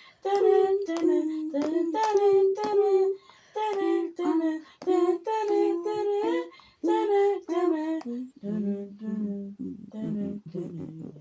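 A voice singing short, high, wordless notes in quick succession. About eight seconds in it drops to lower, longer and rougher vocal sounds.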